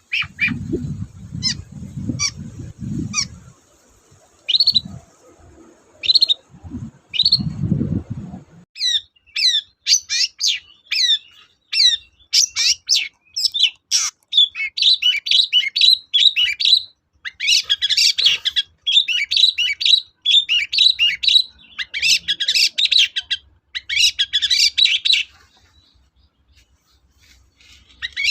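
Long-tailed shrike (cendet) singing. Short, separate sharp calls over low sounds at first, then a fast, unbroken chattering song from about nine seconds in. The song pauses briefly near the end.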